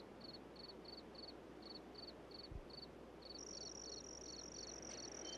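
Crickets chirping faintly, a regular high chirp about three times a second. A second insect's steady high-pitched trill joins a little over halfway through.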